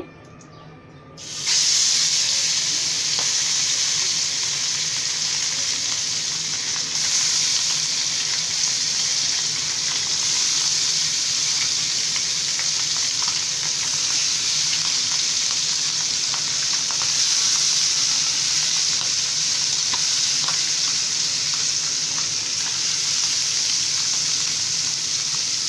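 Marinated parshe fish going into hot oil in a frying pan: a loud sizzle starts suddenly about a second in and keeps up steadily, with small crackling pops as the fish fry.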